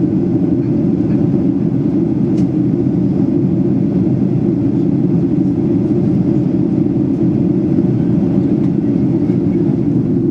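Steady cabin drone of a Boeing 737-800 in flight, heard from a window seat: the CFM56-7B engines and the rush of air along the fuselage making an even, low rumble with no change in pitch.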